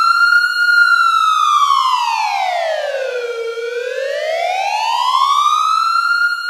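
Police-style wailing siren with one clean pitched tone sliding slowly up and down. It starts high, glides down to its lowest point about three and a half seconds in, and climbs back up near the end.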